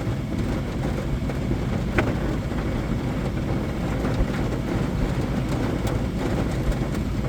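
Steady rumble of thunderstorm wind and rain, with a couple of sharp taps about two and four seconds in.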